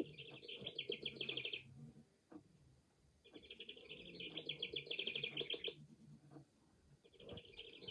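Recorded house wren song played from a singing bird clock's small speaker: three bursts of rapid trilling, the last starting near the end.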